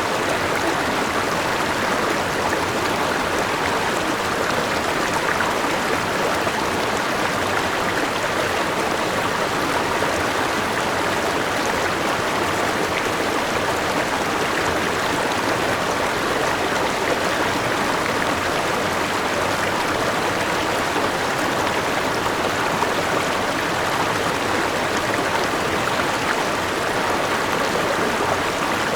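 A forest river rushing steadily over rocks, with the continuous wash of a small waterfall.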